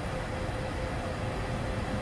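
Locomotive-hauled train approaching slowly: a steady low rumble of the locomotive and wheels on the track, with a thin mid-pitched tone that pulses rapidly above it.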